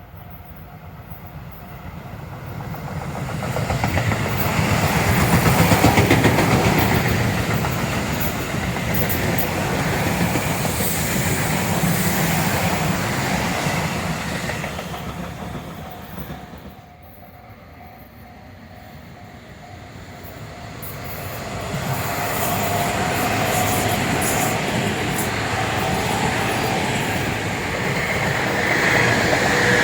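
Tobu Tojo Line electric trains passing: one train rolls in and passes with wheels clattering over the rail joints, then after a brief lull a second train approaches and passes, with a steady whine near the end.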